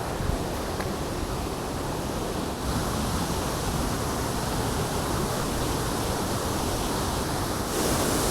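Steady rush of a waterfall and fast-flowing river water, getting louder about two and a half seconds in and again near the end.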